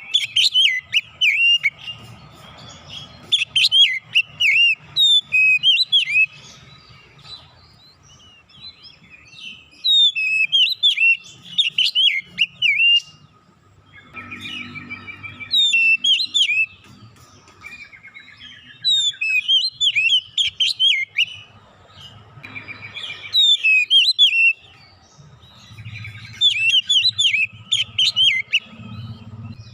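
Oriental magpie-robin (kacer) singing: loud bouts of rapid, varied whistled and chattering notes, each lasting a second or two, broken by short pauses. The song is full of learned phrases (isian).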